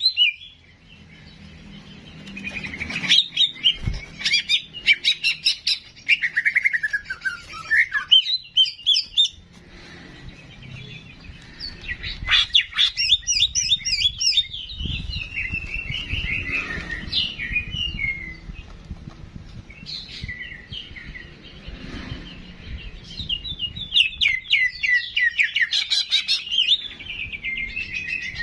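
Songbird singing in bursts of quick, high chirps and rapid trills, some notes sliding down in pitch, with short pauses between phrases. This is a masteran recording of the bird called ki jenggot or cicak jenggot, used to tutor cage birds.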